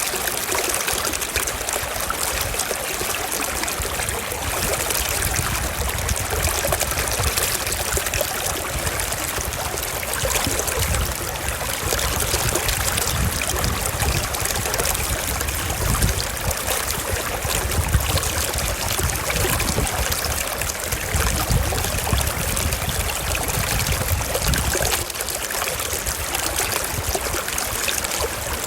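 Forest stream flowing steadily, a continuous trickling rush of water over rocks, with an uneven low rumble underneath.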